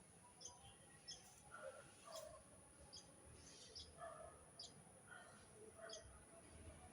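Faint bird chirping: short, high chirps repeating about once or twice a second, over a faint steady high-pitched whine.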